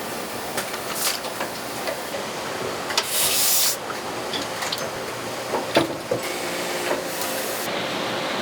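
Factory machinery running with a steady mechanical din, broken by a short hiss about three seconds in and scattered clicks and knocks, the sharpest a little before six seconds.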